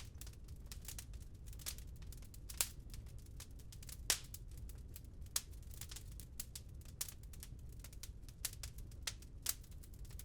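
Wood fire in a fireplace crackling, with irregular sharp pops and snaps several times a second, the loudest about two and a half and four seconds in, over a steady low rumble.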